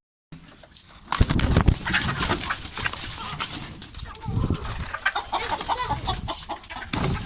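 Chickens and other caged birds calling amid knocks and handling noises, with a heavy thump about a second in.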